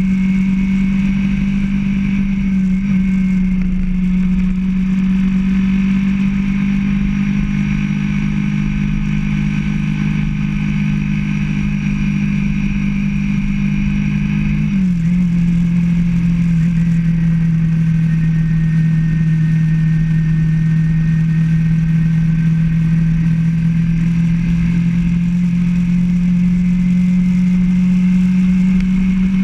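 Motorcycle engine running steadily while riding. Its note drops a little about halfway through and then holds at the lower pitch.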